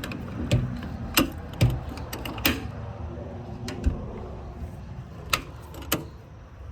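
Irregular clicks and knocks from the fire truck's compartment doors and latches being handled, over a steady low rumble.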